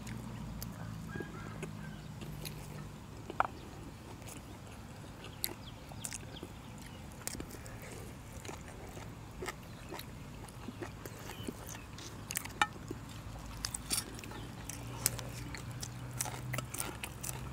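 Close-up eating sounds: people chewing and crunching raw vegetable stems and tadpole curry, with small mouth clicks and lip smacks that come more often in the second half, over a faint steady low hum.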